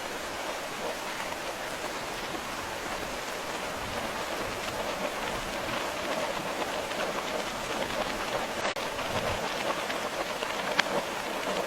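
Steady rain falling, a dense even patter of drops, with one sharp tick of a drop near the end. The sound dips for an instant about nine seconds in.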